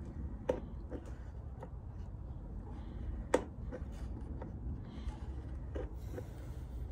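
Small hand pump pushing marine gear oil into an outboard's lower unit: scattered clicks of the pump strokes, the sharpest about three seconds in, over a low steady rumble.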